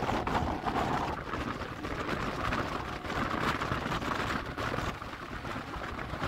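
Suburban electric multiple-unit (EMU) local train running at speed, heard from inside the coach: a steady rumble of wheels on the rails with irregular clatter over joints and points.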